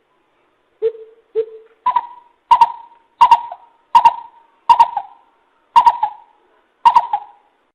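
Coucal (bìm bịp) calling: a series of hollow hoots. Two low notes come first, then seven higher, sharper notes at a fairly even pace, about one a second or a little faster.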